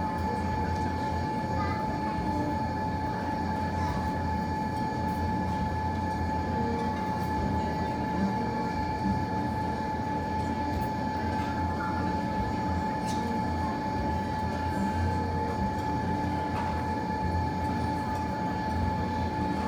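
Steady low rumble and a constant pitched hum of indoor machinery, with a few faint crackles from the fireplace fire.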